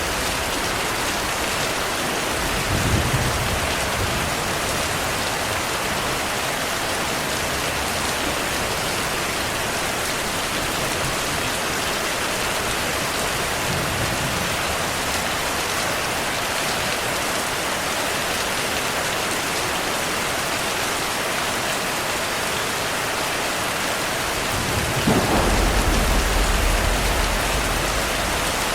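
Heavy rain falling steadily. A short, low rumble of thunder comes about three seconds in, and a longer, louder thunder rumble near the end.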